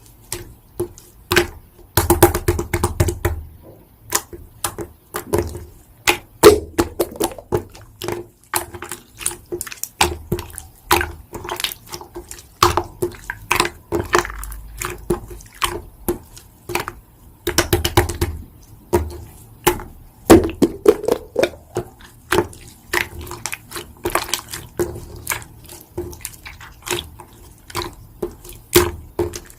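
Slime being squeezed, stretched and pressed by hand, making rapid, irregular wet clicks, pops and squelches.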